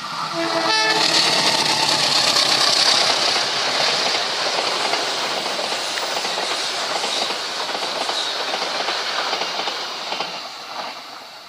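A diesel locomotive's horn sounds with several steady tones and cuts off about a second in. Then comes the loud rushing and wheel clatter of a long passenger train passing close by, which fades gradually toward the end.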